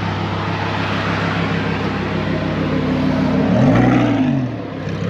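Sports car engine running at speed over tyre and wind noise, with a rise and fall in pitch about three and a half seconds in.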